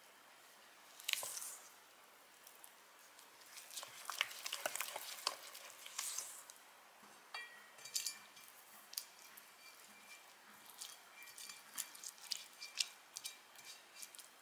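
Kitchen utensils clinking and scraping against a bowl or pan, with scattered light taps that come more often in the second half.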